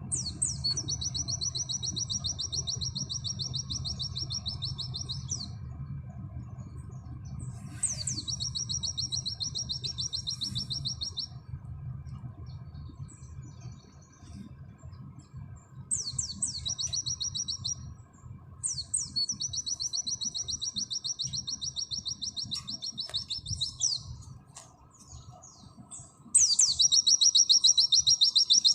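Pleci (white-eye) singing its rapid 'nembak' trill: five long, high, fast-repeating trills, each opening with a quick downward sweep, lasting from about one and a half to five seconds, the last one the loudest. A faint low hum lies underneath.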